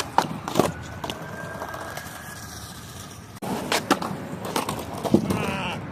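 Skateboard rolling on pavement, its urethane wheels making a steady grinding roll, with several sharp clacks of the wooden deck and trucks hitting the ground as tricks are attempted.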